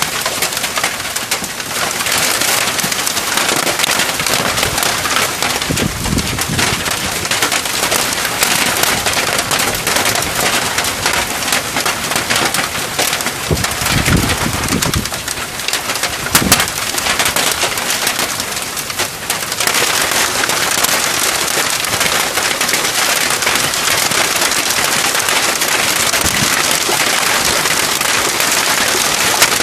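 Heavy rain mixed with hailstones pelting down: a dense, steady patter of countless small hits.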